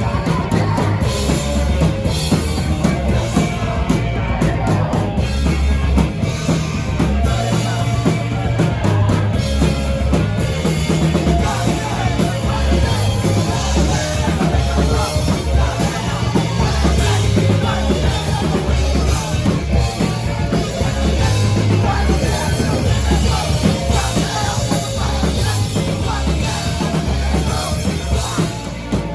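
A rock band playing loud and live, with a drum kit and heavy bass notes that shift in blocks under the music.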